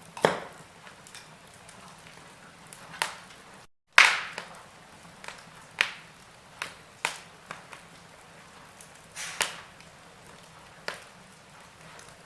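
Wood fire burning in a fireplace, crackling with sharp, irregular pops of burning logs over a soft hiss. The audio drops out completely for a moment just before the loudest pop, about four seconds in.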